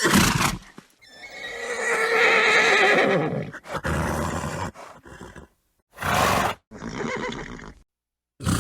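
A horse neighing: a long, wavering whinny starting about a second in and lasting some two and a half seconds, followed by shorter calls. Short blasts of breath, horse snorts, come at the very start, around six seconds in and near the end.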